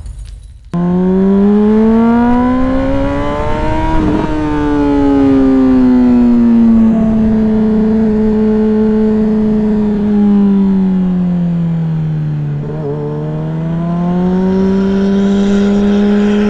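Honda sport bike's inline-four engine under way. It starts abruptly about a second in and rises in pitch for about three seconds as it accelerates, then eases down slowly over several seconds before climbing again near the end.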